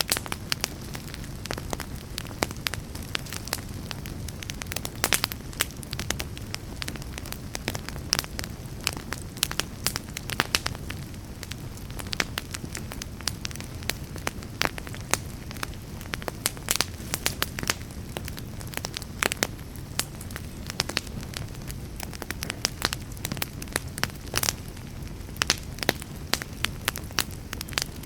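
Wood fire crackling in a fireplace, with frequent sharp pops and snaps over a low, steady rumble.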